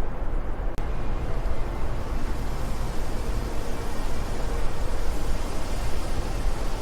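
Steady wind noise, strongest in the low rumble, with a brief dropout and click about a second in, after which more high hiss comes in.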